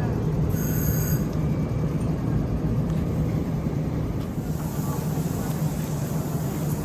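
Electric train sounds: a steady low hum with rumbling noise, a brief high-pitched tone about half a second in, and more hiss in the second half.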